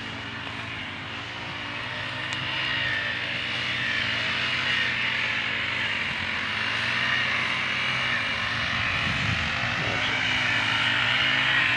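A steady engine drone with a low hum, slowly growing louder.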